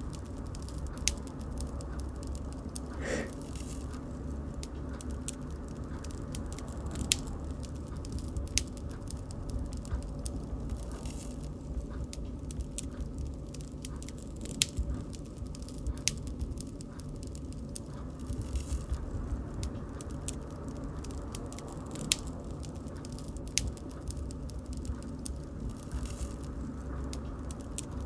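Bonfire burning: a steady low rumble from the flames with irregular sharp crackles and pops from the burning wood.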